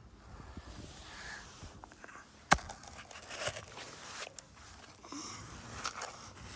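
Toy monster trucks being handled and moved about, with light scraping and rustling and one sharp click about two and a half seconds in.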